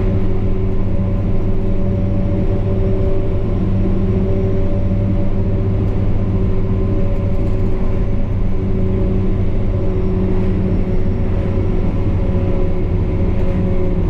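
Military truck's diesel engine and drivetrain running steadily while driving: a loud, even drone with a constant pitch.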